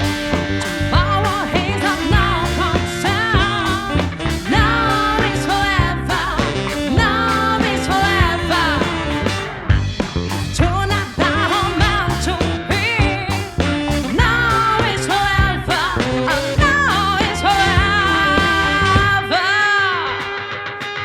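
Live band playing a soul-pop song: drums, bass, electric guitar and keyboards under a wavering lead melody. Near the end the drums and bass drop away under a held note that bends down.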